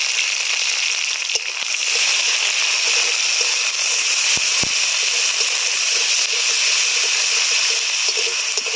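Spice pastes frying in hot mustard oil in a kadai, a steady loud sizzle, while a spatula stirs them with a few light knocks.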